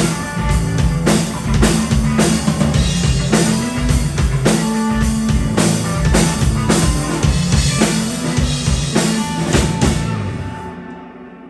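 Live band music with a drum kit and bass prominent, regular kick and snare hits over a steady bass line; the playing stops about ten seconds in and the sound dies away.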